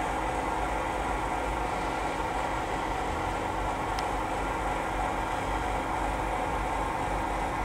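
Steady running noise of a moving train heard from on board: an even rushing hiss with no distinct wheel clacks, and one faint tick about four seconds in.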